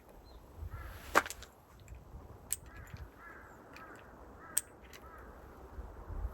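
Campfire burning with scattered sharp crackles and pops of the wood. The loudest pop comes about a second in, with smaller ones a few seconds later.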